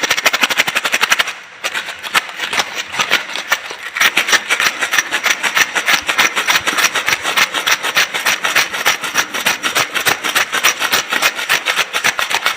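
A glass being played by hand for its sound: a fast, even run of sharp clicks, many a second, with a short break about a second and a half in.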